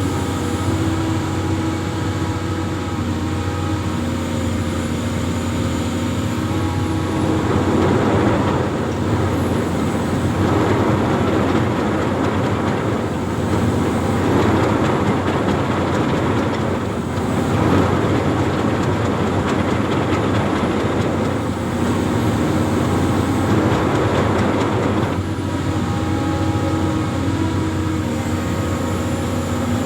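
Amphibious excavator's diesel engine running with a steady low hum, growing louder and rougher for a long stretch in the middle, as when the machine works under load, then settling back.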